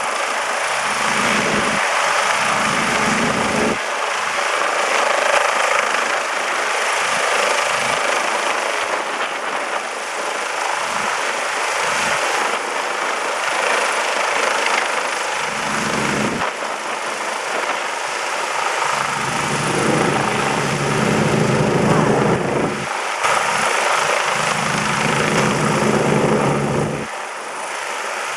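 Rescue helicopter's rotor and turbine running loud and steady, with a faint high whine. Gusts of low rumble buffet the microphone, cutting in and out abruptly.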